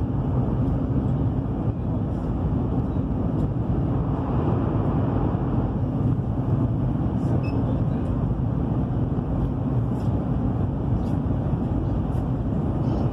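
Steady, deep rumble of a high-speed train heard inside the passenger cabin while it runs at around 300 km/h.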